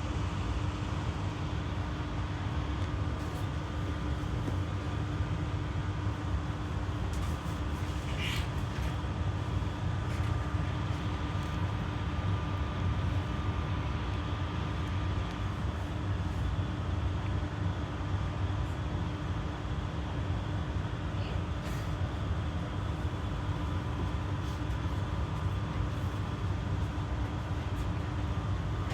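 Berlin GT-type low-floor tram heard from inside the car while running along the track: a steady low rumble with a constant hum. A short high squeak about eight seconds in and a few faint clicks.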